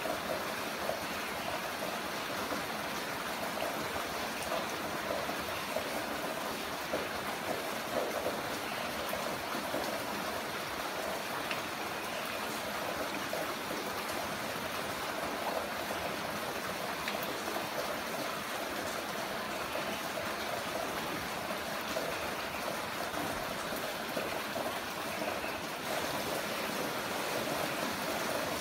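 Heavy rain falling, a steady dense hiss of water with a few faint drop ticks.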